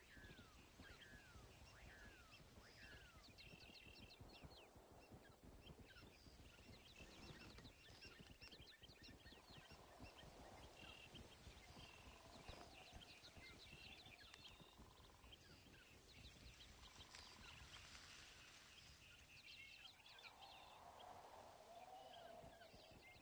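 Faint birdsong from several birds: repeated short chirps, high trilled notes and quick downward-sweeping whistles, over a low background rumble.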